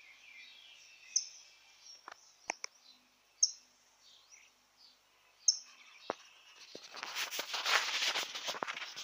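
A small bird chirping in short high calls about every two seconds, with a few faint clicks. For the last two seconds, close rustling and handling noise drowns it out.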